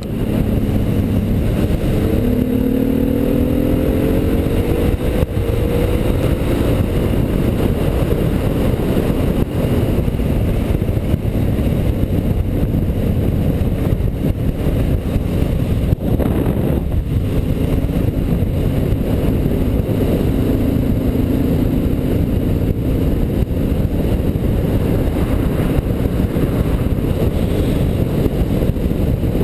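Motorcycle riding at road speed, engine running under loud, constant wind rush. The engine pitch rises between about two and seven seconds in as the bike accelerates, then settles into a steady cruise.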